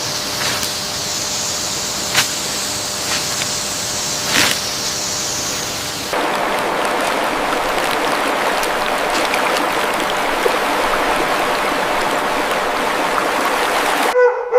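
Steady rushing noise of water, with a few sharp clicks in the first part. About six seconds in it changes abruptly to a denser, fuller rush, and it cuts off just before the end.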